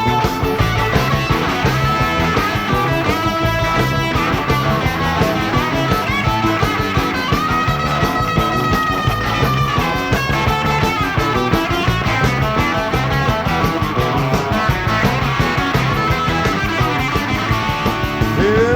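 A live four-piece rock band of two electric guitars, bass and drums playing an instrumental break, with a lead guitar line of held, bending notes over a steady beat.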